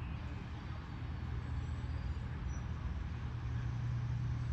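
A motor vehicle's engine running with a steady low hum that grows a little louder in the second half, over general street noise.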